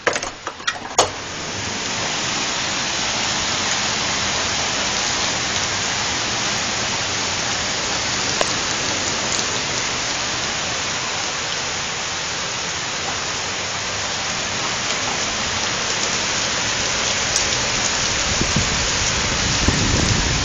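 Heavy downpour: a dense, steady hiss of rain, louder from about two seconds in. A few sharp clicks come in the first second, and low rumbling builds near the end.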